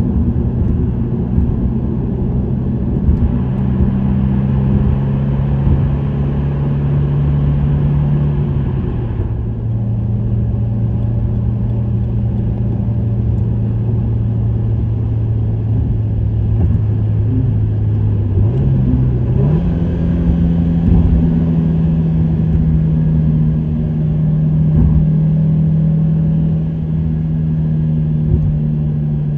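Subaru WRX STI's turbocharged EJ20 flat-four with an STI Performance muffler, cruising: a steady engine drone over road noise. The engine note drops slightly about nine seconds in and rises again around nineteen seconds.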